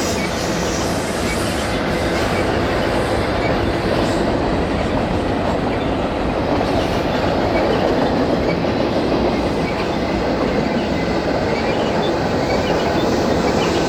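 BNSF double-stack container train rolling past on steel wheels and rail, a loud, steady rumble that does not let up.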